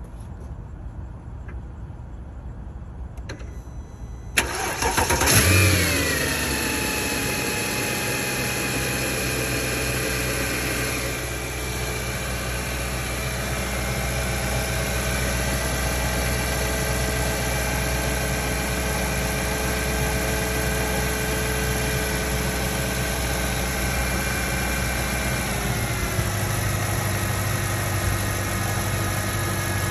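2008 Mercedes-Benz ML63 AMG's 6.2-litre V8 starting from cold about four seconds in: a brief crank and a flare of revs that falls away over a couple of seconds into a steady fast cold idle. Near the end the idle steps down lower.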